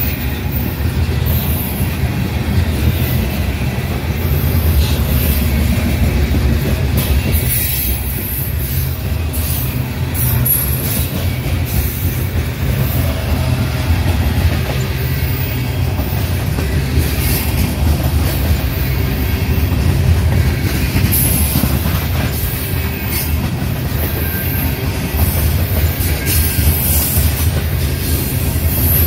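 Union Pacific train rolling past: a steady, heavy low rumble of wheels on the rails, with brief high-pitched wheel squeals flickering in and out.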